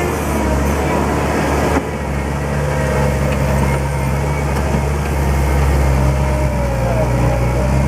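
JCB 205T tracked skid steer loader running at working speed, its diesel engine steady with a whine above it that wavers up and down in pitch. The level drops suddenly about two seconds in.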